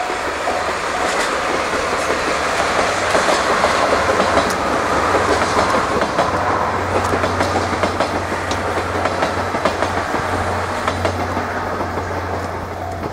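Diesel-hauled passenger train of 14-series coaches running past on the line, wheels clattering over the rail joints; loudest a few seconds in, then slowly fading as it draws away, with a steady low hum in the second half.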